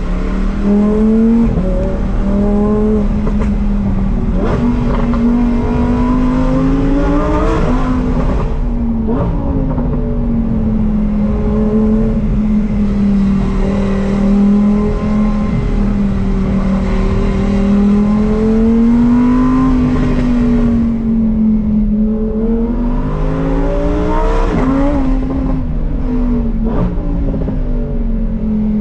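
Lamborghini Huracán STO's naturally aspirated 5.2-litre V10 driving along. Its engine note mostly holds steady with gentle swells, and the revs climb and then drop a few times: about eight seconds in, around twenty seconds, and a sharper climb near twenty-four seconds.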